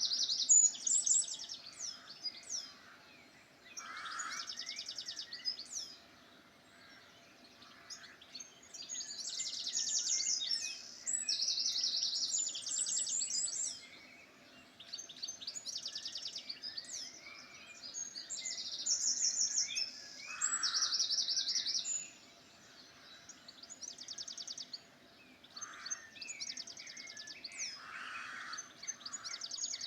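Several songbirds singing: high, rapid trilled phrases a second or two long, one after another with short pauses, among scattered chirps. A faint steady hum sits underneath.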